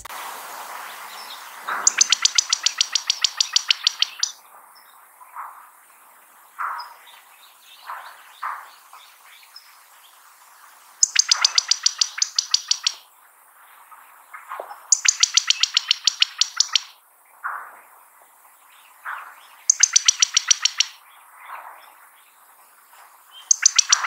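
Birds calling: a rapid, high trill about two seconds long repeats five times, with short single call notes scattered in between.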